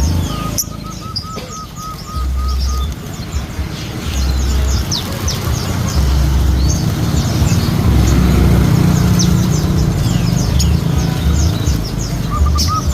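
Lovebird chattering in rapid, shrill chirps, over a low rumble. A quick run of short, evenly repeated notes sounds about a second in and again near the end.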